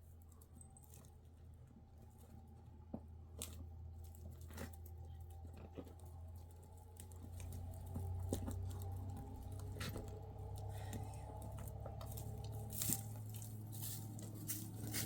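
Scattered small clicks and crackles over a low steady hum, growing busier and louder after about eight seconds.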